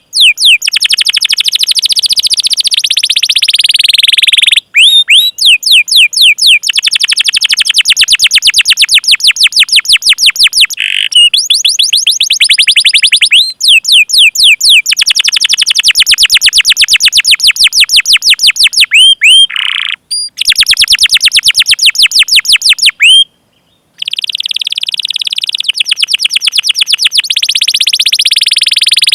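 Domestic canary singing long rolled trills of rapid, evenly repeated chirp notes, about ten a second, broken by a few short pauses.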